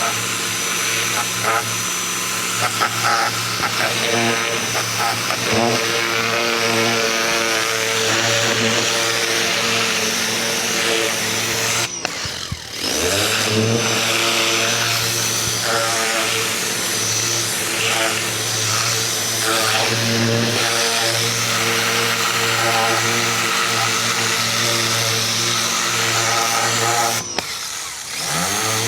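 Ryobi 2000 PSI electric pressure washer running steadily, its motor hum under the hiss of the spray. Twice, about twelve seconds in and again near the end, the motor cuts out briefly and spins back up as the spray gun's trigger is let go and squeezed again.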